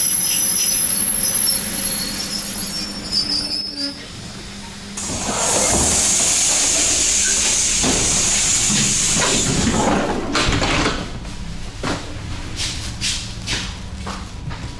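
Suburban electric train running, heard from inside the carriage, with a loud hiss for about five seconds midway. After that it runs quieter, with a series of short knocks near the end.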